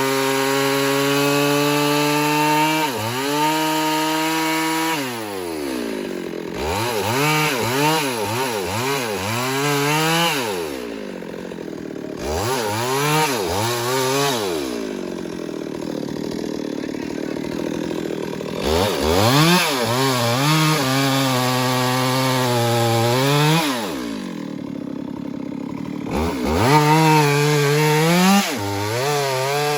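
Stihl MS 382 two-stroke chainsaw cutting wood, its engine revving up and dropping back again and again, the pitch rising and falling.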